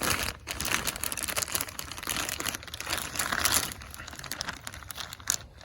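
Plastic bag with a little water inside crinkling as it is squeezed and worked by hand. The crinkling is busiest for the first few seconds, then gets quieter.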